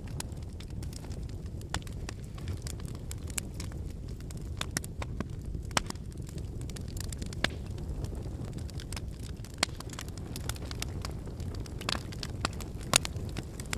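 Wood campfire burning: a steady low rush of flame with frequent sharp crackles and pops from the burning firewood, a few pops standing out louder than the rest.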